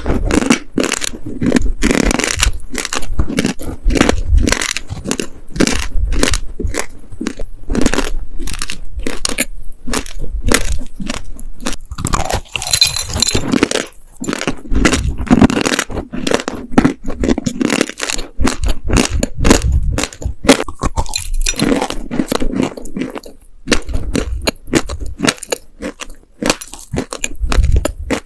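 Close-miked crunching of dry, sandy baked clay cookies being bitten and chewed, a fast, uneven run of sharp crunches with a grittier rustle about halfway through.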